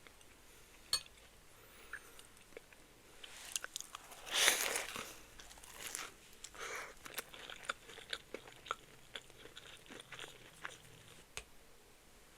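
Biting into and chewing a crispy lamb samosa. There is one loud crunch of the pastry about four seconds in, followed by several seconds of crackly chewing with scattered sharp clicks that die away near the end.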